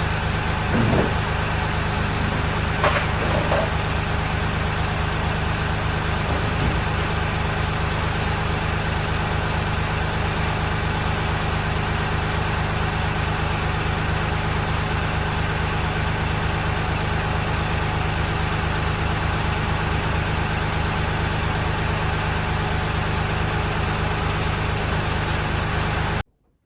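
An engine or motor running steadily at one speed, with a few faint knocks in the first few seconds; it cuts off suddenly near the end.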